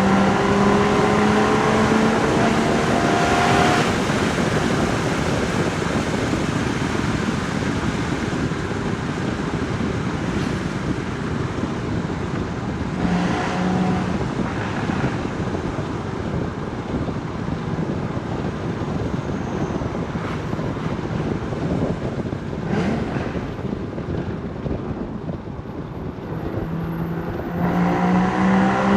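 Porsche Boxster Spyder 981's 3.8-litre flat-six accelerating, its note rising in pitch for the first few seconds before it drops away. A long stretch of wind and road rush follows, with a short burst of engine note near the middle, and the engine pulls again with a rising note in the last couple of seconds.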